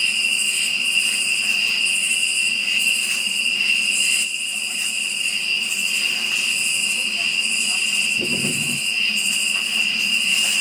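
Chorus of night insects: a steady high trill with a rhythmic pulsing above it, about one pulse a second. A brief low rumble about eight seconds in.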